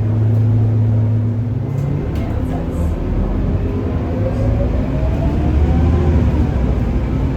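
Scania K230UB city bus's five-cylinder diesel engine pulling under kickdown acceleration: a steady engine note for about two seconds, then the note changes and the revs climb with a rising whine over the following seconds, over a heavy low rumble.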